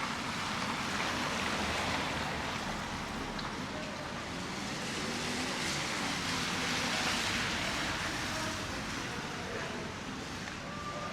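Steady hiss of city street traffic, swelling twice as vehicles pass.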